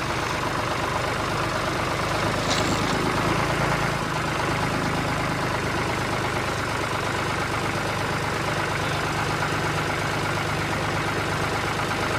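Steady engine-like drone of a running vehicle, with a brief high click about two and a half seconds in.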